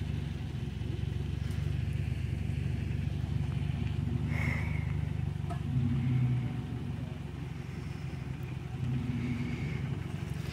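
Motor vehicle engine running in the mud, its revs swelling briefly about six seconds in, with smaller rises before and after.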